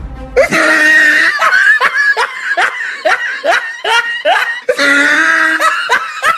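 Loud laughter: a held note, then a run of short, rising 'ha' sounds, then another held stretch near the end.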